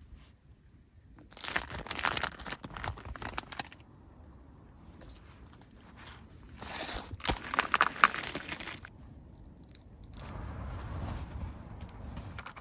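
Plastic food packaging crinkling and tearing in three bursts of handling while a sandwich is made.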